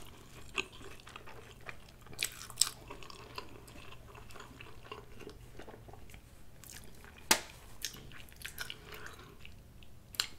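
Close-miked chewing of a soup-dipped grilled cheese sandwich: soft wet mouth sounds with a few sharp clicks, the loudest about seven seconds in.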